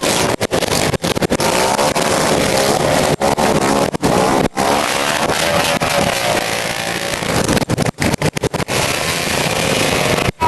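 Motorcycle engines at a race, running hard and revving with a wavering pitch. The loud sound cuts out for an instant many times.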